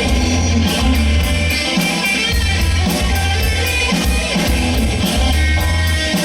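Rock band playing live: electric guitar, bass and drum kit, with a steady beat on the cymbals.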